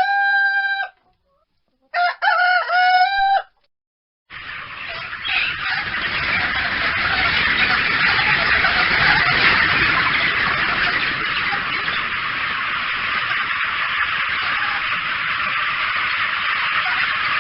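Rooster crowing: the tail of one crow, then a second full crow about two seconds in. From about four seconds in, a dense, steady din with no clear calls takes over and runs on loudly.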